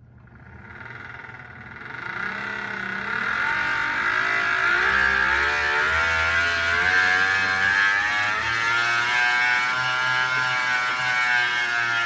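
Tacx Vortex smart trainer spinning up under a rider, its whine rising in pitch and loudness over the first few seconds, then running steadily with the pitch wavering with pedalling speed.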